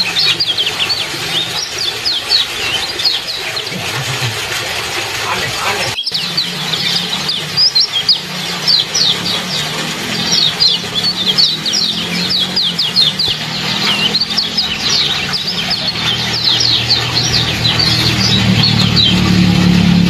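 Kecial, a small songbird, giving rapid sharp 'ciak ciak' chirp calls, each a quick falling note, in long runs. The calls break off for a moment about six seconds in, then resume.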